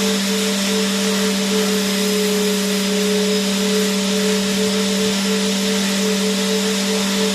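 Vacuum cleaner motor running continuously: a steady low hum under a dense rushing hiss of air, with a higher whine that wavers and pulses a few times a second at moments.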